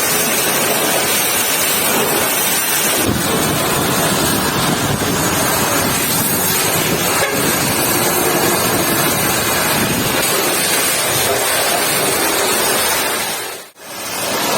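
High-pressure washer spraying water in a steady, loud hiss that cuts out briefly near the end.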